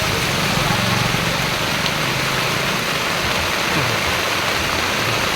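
Heavy rain falling, a steady loud hiss of rain on the ground and surfaces.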